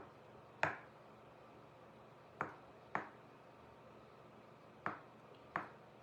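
Paintbrush handle end tapping paint dots onto a painted sign: five sharp taps at uneven intervals, each one a single dotted snowflake.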